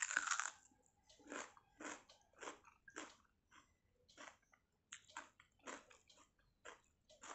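A person biting into a hand-fed mouthful of soaked rice and fried gram-flour fritter, then chewing close to the microphone, about two chews a second. The bite at the start is the loudest sound.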